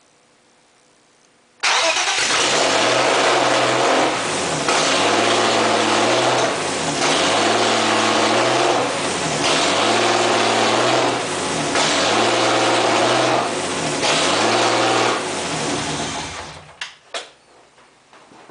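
BMW M50TU 2.5-litre inline-six, fitted with S50 camshafts, catching suddenly and running loud on its second start after being swapped in, its speed rising and falling about every two seconds. It shuts off near the end, followed by a few clicks.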